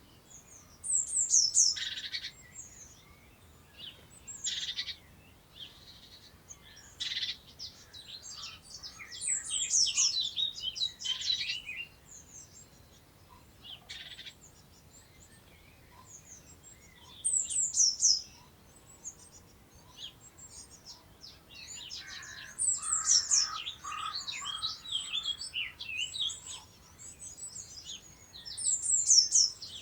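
Several songbirds singing. One repeats a short, high phrase of quickly falling notes every several seconds, between sharp single calls and scattered chirps from other birds.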